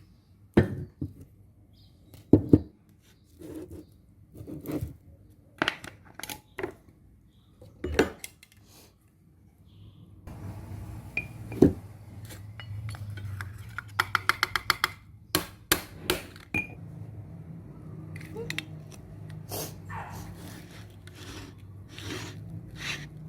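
Dishes and utensils clinking and knocking, one sharp stroke after another, with a quick rattling run about two-thirds of the way through. A low steady hum runs underneath from about halfway.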